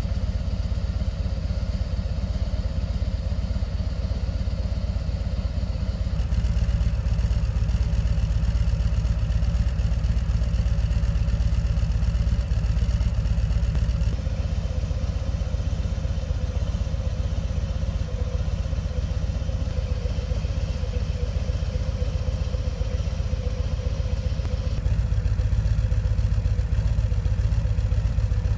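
2020 Harley-Davidson CVO Limited's Milwaukee-Eight 117 V-twin idling steadily, the tone shifting slightly at a few cuts between recordings.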